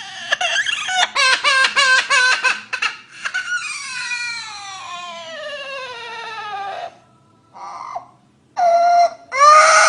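Parrot mimicking a crying child: a quick run of short wailing cries, then one long wail sliding down in pitch for several seconds, and a few short loud cries near the end.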